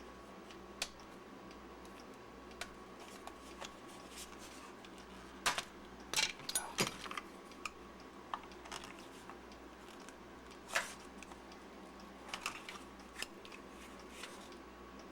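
Screwdriver prying and scraping at the seam of a plastic battery-pack case to crack it open. Scattered clicks and scrapes, with a cluster about five to seven seconds in and another sharp click near eleven seconds.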